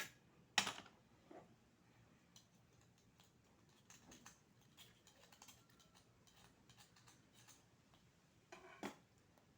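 Faint clicks and taps from eating at a table, with a sharp click about half a second in and a short burst of clicks near the end, as oyster shells and dishes are handled.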